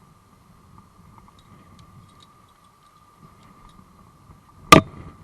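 A single sharp click or knock near the end, over a faint steady high-pitched hum and a faint low rumble.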